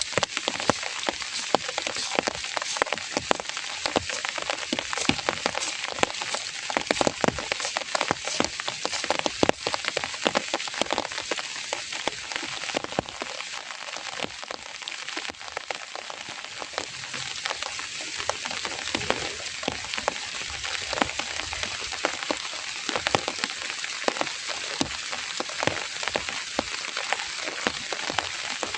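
Heavy rain falling steadily, with many sharp individual drop strikes close by on a hard surface.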